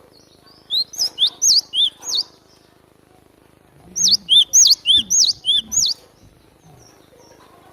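Cinereous tit (glatik batu) singing: two phrases, each of about seven or eight quick, sharp high notes, with a pause of nearly two seconds between them.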